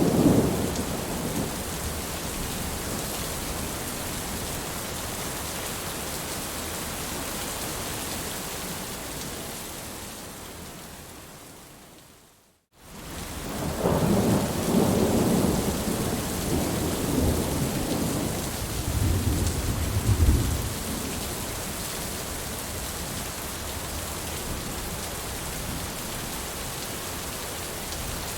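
Heavy rain with a steady hiss and rolling thunder. A rumble dies away at the start. The whole sound fades to silence about twelve seconds in and fades back in, like a loop or edit point. A longer roll of thunder follows, peaking around twenty seconds in, before steady rain resumes.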